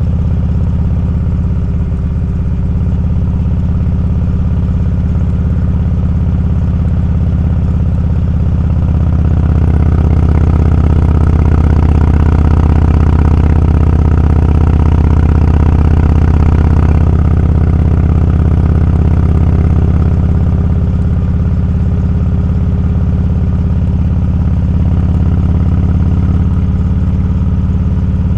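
Motorcycle engine running steadily on the road, its low note growing louder for several seconds in the middle as it pulls harder, then easing back.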